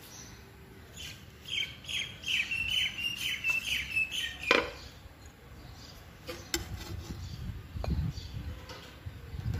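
A bird calling a quick series of about eight short falling chirps, followed by a sharp click about halfway through. Near the end come a few light clinks of a metal ladle against a glass bowl and the cooking pot.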